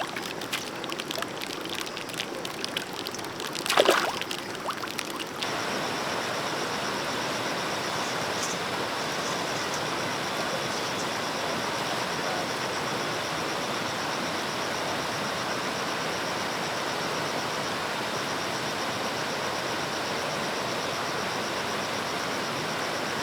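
Water flowing steadily, with irregular clicks and one loud sharp splash-like sound about four seconds in, after which the flow settles into an even rush.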